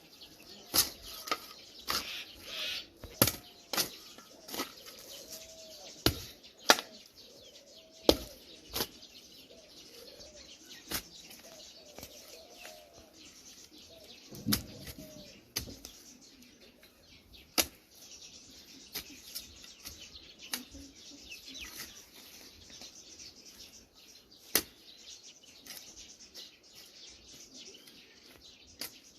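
Birds calling: a string of short, low calls that rise and fall in pitch, with some higher chirping, over irregular sharp taps.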